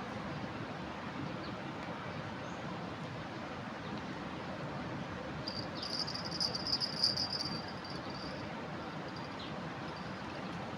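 Steady rushing of a river in flood. A high, insect-like trill joins it for about three seconds in the middle.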